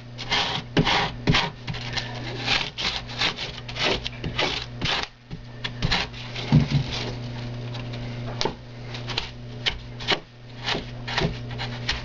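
Extruded foam being scraped and smoothed by hand, a run of quick, uneven rubbing strokes as a carved slope is blended in, over a steady low hum.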